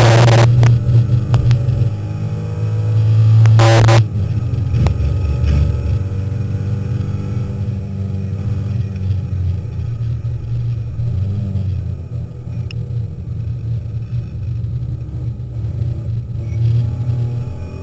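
Alpine A310 race car's engine heard from inside the cabin at speed on a circuit: loud under throttle, then dropping suddenly about four seconds in to a lower, steadier drone for the rest of the run.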